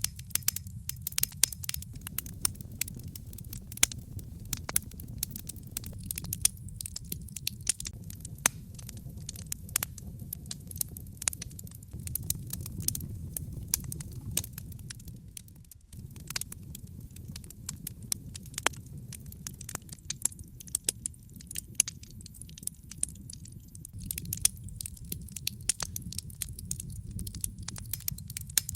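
Wood logs burning in a fireplace: rapid, irregular crackles and pops over a steady low rumble of the flames.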